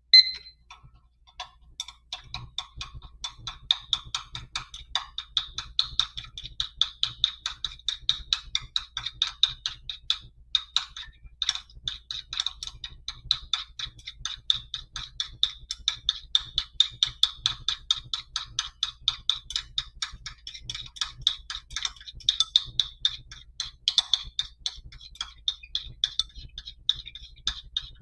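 A timer gives a short beep as it is started, then ticks rapidly and steadily as it counts down a two-minute cooling period.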